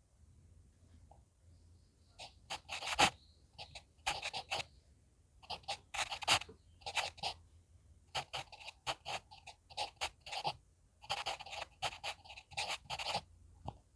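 HB pencil writing on manuscript paper: quick scratching strokes in uneven runs, with brief pauses between characters.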